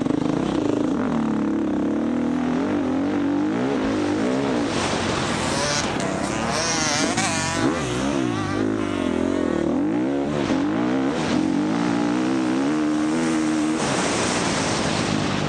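Off-road race dirt bike's single-cylinder four-stroke engine running hard, its revs rising and falling constantly as the throttle is worked.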